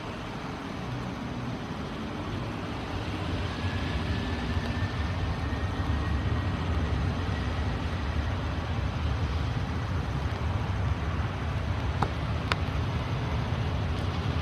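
Boeing 737-800's CFM56-7B turbofan engines at takeoff power, a deep rumble that grows louder a few seconds in, with a faint rising whine. Two sharp clicks near the end.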